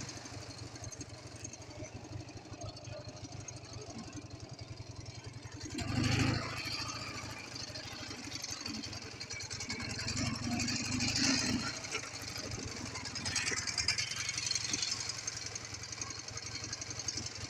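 A freshly overhauled Ural motorcycle's air-cooled flat-twin engine running with a fast, even pulse, with a sudden louder burst about six seconds in and more swells of power later on.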